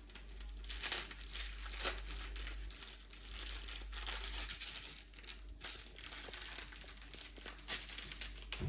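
Packet of slime sprinkles crinkling and rustling in the hands as it is opened.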